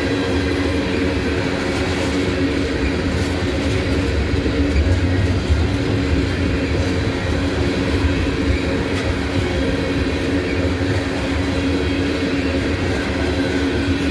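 Freight train of empty tank cars rolling past, steel wheels on the rails making a steady, loud growl with a constant droning tone. The growl comes from rails that have been ground down, leaving small grooves.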